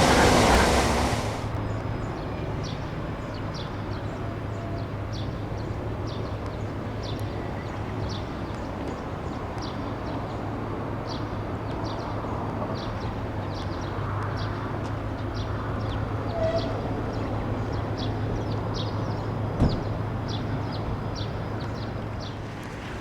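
A loud passing vehicle noise dies away in the first second or so. Then a steady low engine hum runs on under a short high chirp that repeats about twice a second, with one brief knock near the end.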